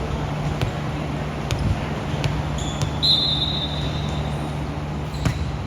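Volleyball gym ambience: a steady hum of room noise with a few scattered sharp smacks of a ball, and a short high-pitched tone about three seconds in.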